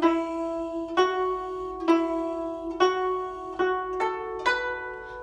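Guzheng played slowly, one plucked note at a time, about seven notes roughly a second apart, each left ringing into the next. It is the bare melody line of the piece, played with the right hand only and no glissando.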